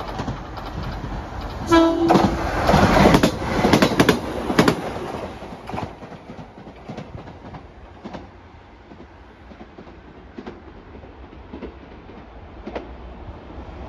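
JR Kyushu 817 series electric train giving one short blast on its typhon horn about two seconds in. It then passes close by with its wheels clacking over the rail joints, and the sound fades as it runs away.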